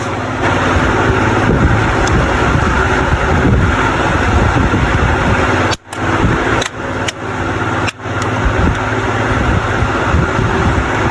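Steady whoosh of a large electric cooling fan blowing near the microphone, broken by two sudden brief drops a little past the middle.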